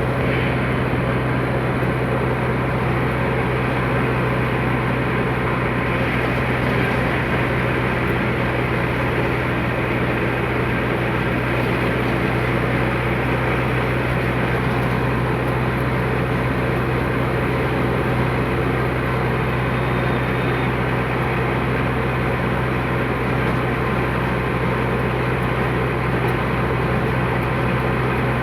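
Tractor diesel engine running steadily at a constant speed, a low unchanging drone.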